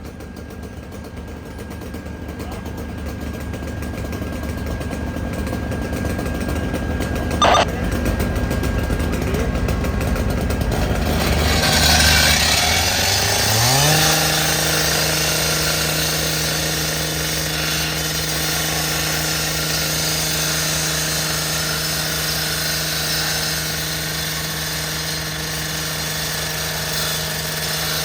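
Small petrol engine, a firefighters' power tool, throttled up: its pitch climbs for about two seconds near the middle and then holds at steady high speed under a harsh hiss. A single sharp click about seven and a half seconds in.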